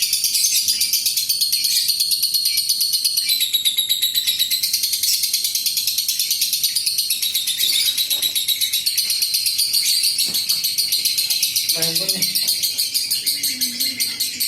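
Lovebird singing a long 'ngekek': a continuous, rapid, high-pitched chattering trill. This is the long ngekek that keepers play to set other lovebirds singing.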